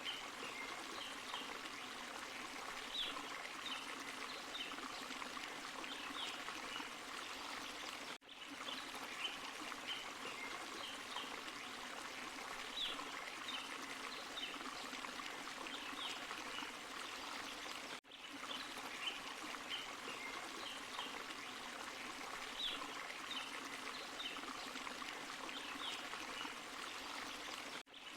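Small forest waterfall and stream: a steady rush of water with short high chirps over it. The sound cuts out briefly about every ten seconds.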